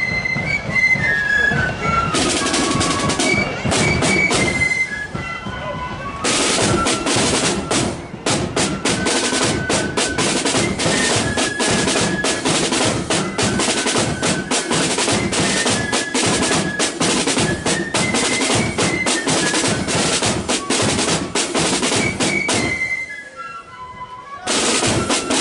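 Marching flute band playing a tune: flutes carry the melody over a snare drum roll and bass drum. The drumming turns dense about six seconds in and drops away briefly near the end.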